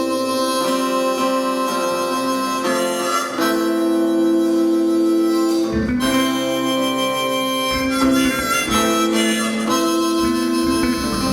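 Harmonica playing long held chords over guitar, changing chord every few seconds: the instrumental intro of a live rock song.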